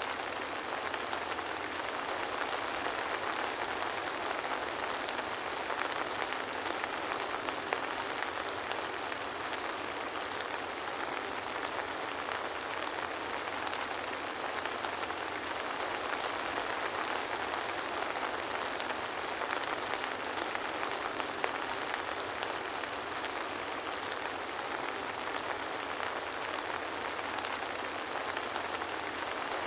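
Soft rain falling steadily: an even hiss with faint ticks of single drops scattered through it.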